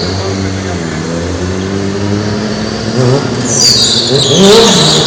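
Stunt motorcycle's engine running at fairly steady revs, then revving up and down from about three seconds in, with a high tyre squeal joining near the end as the rear tyre spins.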